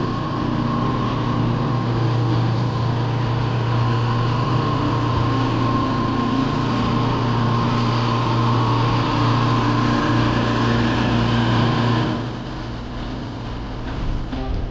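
An engine running steadily at one constant pitch, which cuts off about twelve seconds in.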